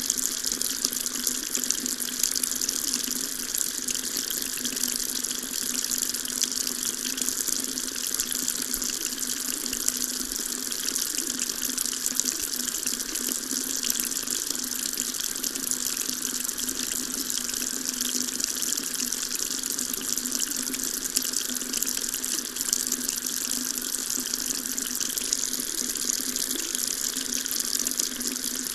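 Water tap running steadily, a continuous stream of water splashing into a sink, with a bright hiss.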